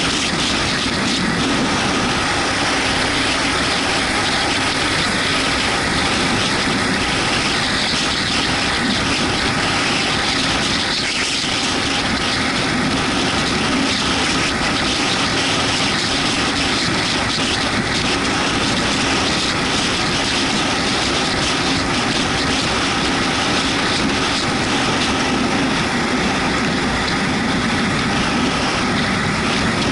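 Yamaha MT-125's single-cylinder engine running at steady speed, ridden on a wet road, under a dense, steady rush of wind and tyre noise.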